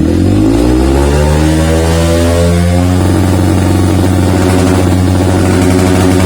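Yamaha WR155's single-cylinder engine through a Triton CR-5 full-system stainless exhaust, revving up from idle over about three seconds and then held steady at high revs.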